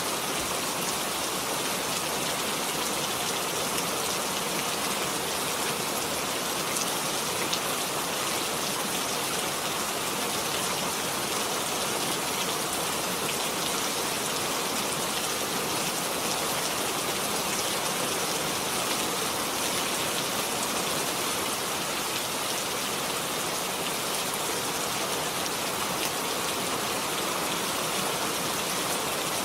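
Steady rain falling, an even hiss with fine drop patter throughout.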